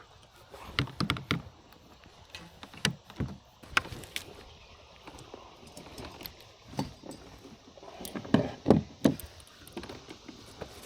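Irregular knocks and thumps of handling aboard a kayak, in scattered clusters with the loudest near the end.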